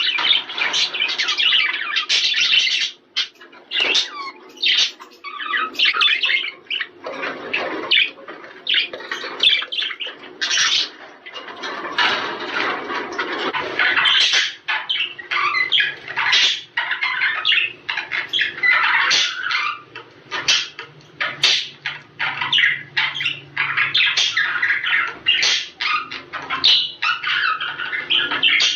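Budgerigars chattering and warbling without a break, a dense mix of overlapping chirps, squawks and trills, the kind of flock chatter played to budgies to stimulate breeding.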